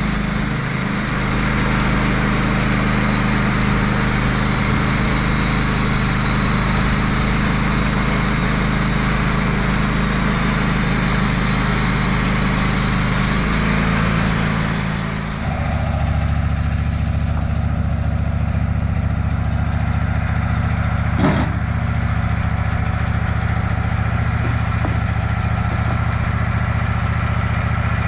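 Sawmill engine running steadily. For roughly the first half a hiss rides over it, which stops suddenly about halfway through, leaving the engine alone at a lower, steadier tone.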